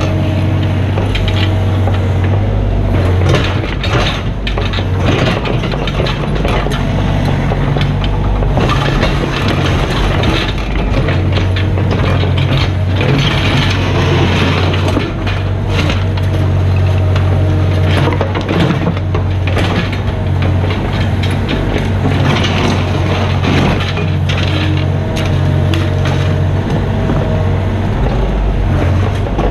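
Mini excavator's diesel engine running steadily under load, with irregular knocks and scrapes of the bucket working the ground.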